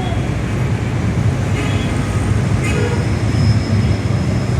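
A General Electric diesel locomotive hauling a passenger train, passing with a steady low rumble.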